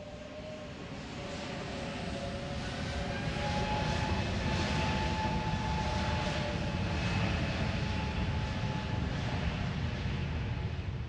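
Airbus A321neo's twin turbofan jet engines on takeoff. A deep rushing roar builds over the first few seconds, then holds steady, with thin whining tones above it that drift slowly in pitch.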